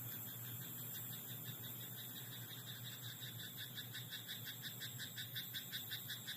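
Frog croaking in a rapid, even series of about four to five pulses a second, growing louder from about three seconds in and stopping abruptly near the end, over a steady background hiss.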